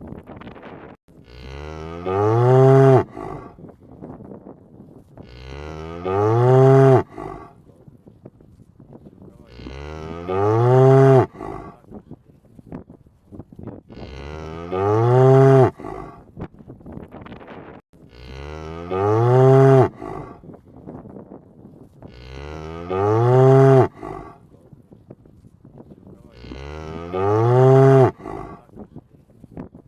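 A cow mooing over and over, about seven moos evenly spaced every four seconds, each about two seconds long and rising then falling slightly in pitch.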